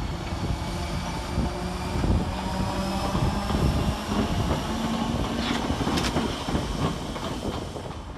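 Merseyrail Class 508 electric multiple unit pulling away, its motor hum rising in pitch in small steps as it picks up speed over a steady rolling rumble. A few sharp clicks come from the wheels about two-thirds of the way through.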